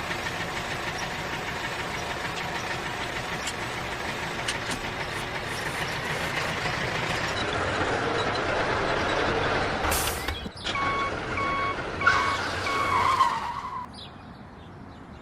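Steady mechanical running noise that slowly grows louder for about ten seconds, then stops abruptly. After it comes a series of short, evenly spaced electronic beeps, like a vehicle's reversing alarm.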